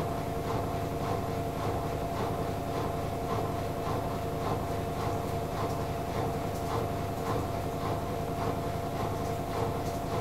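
AEG Lavamat L88489FL front-loading washing machine running steadily on its duvet programme, around the intermittent spin before the last rinse. A constant motor hum with a held tone, and a regular rumble of the turning drum about three times a second.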